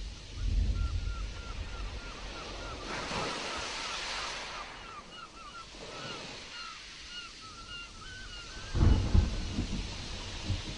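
Stormy sea surf washing and surging, with wind. About nine seconds in comes a loud low rumble of thunder. A quick run of short, repeated high chirps goes on through most of the stretch before it.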